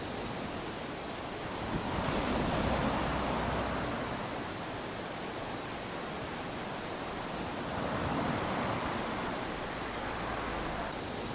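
Small ocean waves lapping onto a sandy beach: a steady wash of surf that swells gently twice, about two seconds in and again about eight seconds in.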